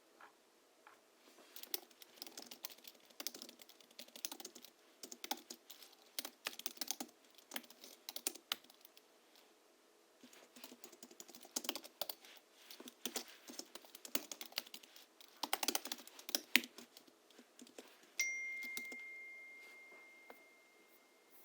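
Typing on a Hansung GHL-5X keyboard fitted with 50 g rubber domes and Krytox-lubricated springs, giving soft clacky keystrokes in quick runs with short pauses. Near the end a single clear ding rings out and fades over about three seconds.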